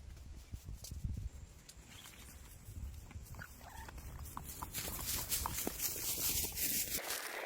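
Footsteps of a person walking on a rough mountain path, with scattered short crunches over a low rumble; about five seconds in a louder rustling hiss builds up.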